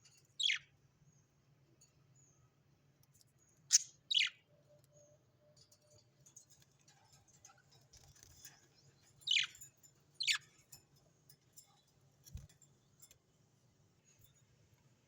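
Bird calls: five short, sharp calls, each sweeping steeply down in pitch, heard singly and in pairs with long gaps between, over a faint low hum.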